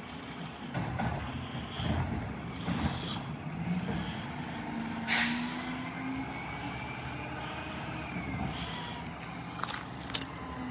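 Garbage truck working at the curb, its engine running under sharp hisses of air brakes. A thin whine rises and falls in the middle, and a sharp click comes near the end.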